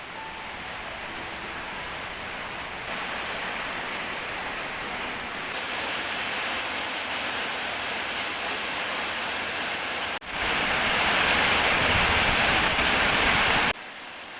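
Steady rain falling, heard across several short cuts, heaviest for about three seconds near the end.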